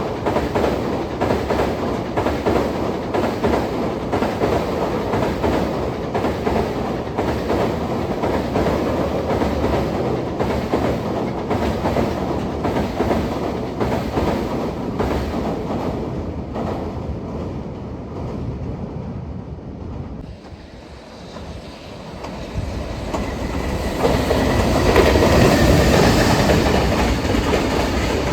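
Container freight train passing at speed, its wheels clattering over rail joints in a quick, even rhythm. The rail noise dips about two-thirds of the way through, then swells again louder near the end, with a faint steady whine.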